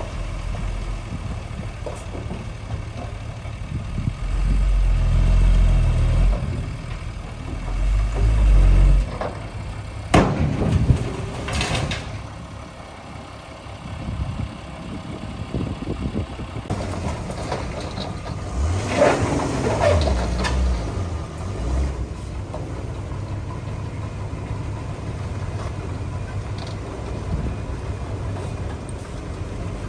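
Heavy diesel earthmoving machinery running, its engine surging loud and low twice in the first third, with a few sharp clanks about a third of the way in.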